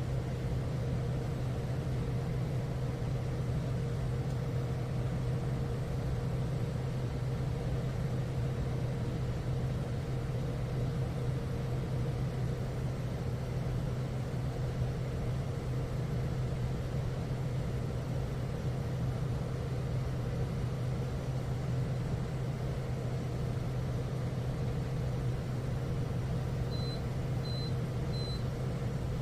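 Steady low hum, unchanging throughout, with three short high-pitched beeps near the end.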